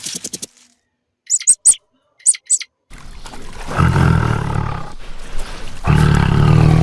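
A few short, high chirps, then an animal's long, low-pitched call, given twice, each about two seconds long.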